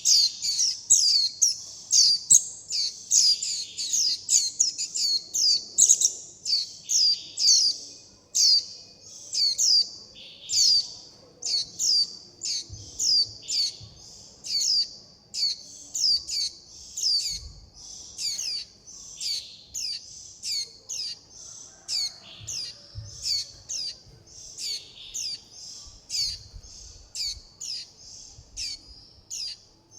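Young white-eye chicks giving a rapid, unbroken string of short, high-pitched calls, about two to three sharp notes a second: the begging and contact calls of fledglings calling for their parent, the flock and food.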